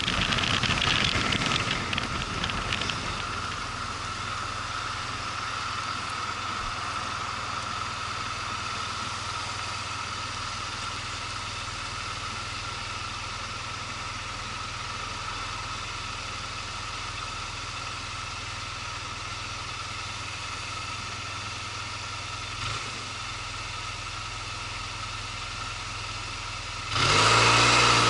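Motorcycle engine idling steadily after louder wind and road noise fades in the first few seconds. Near the end the level jumps suddenly as the engine revs up and the bike pulls away.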